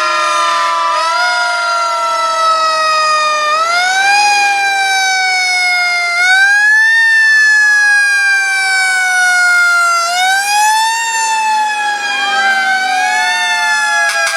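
Several fire truck sirens wailing together and overlapping. Each pitch climbs quickly and then slides slowly down, over and over, at different pitches and out of step with one another.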